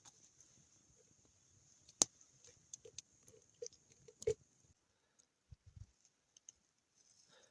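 Scattered small clicks and light taps over a faint steady hiss, with a sharp click about two seconds in and a louder knock just past four seconds; the hiss stops a little later.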